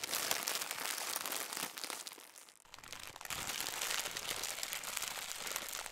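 Dense crackling static, like a glitch sound effect, that dips briefly about two seconds in and then carries on.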